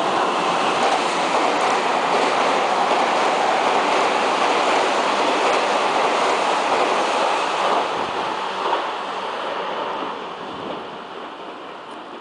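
Meitetsu electric train running past at speed: a loud, even rolling noise that dies away over the last four seconds as the train moves off.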